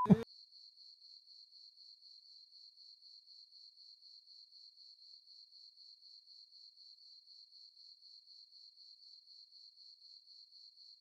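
Faint, steady chirping of crickets: a high trill pulsing evenly about four times a second.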